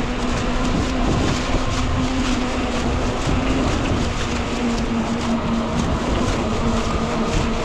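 Riding noise from a 20-inch fat-tire electric bike at steady speed: wind rushing over the microphone, with a steady hum of the fat tires and hub motor underneath.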